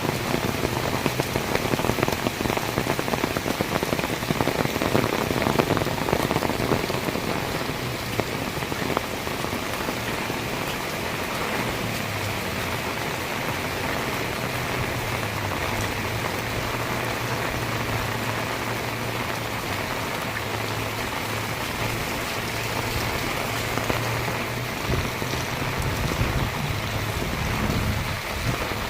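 Heavy rain pouring down, with dense patter in the first several seconds that settles into a steady pour. A low steady hum runs underneath from a little under halfway in until near the end.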